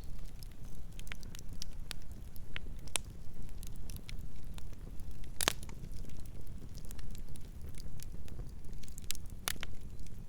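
Campfire burning with a low steady rumble and frequent sharp crackles and pops of burning wood, two louder pops about halfway through and near the end.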